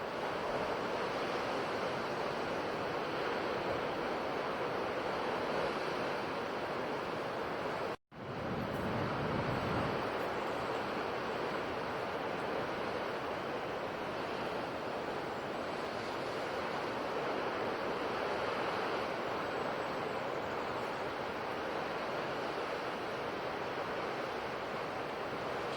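Ocean surf washing steadily on a shore. The sound cuts out for a split second about eight seconds in, then comes back with a fuller low rush.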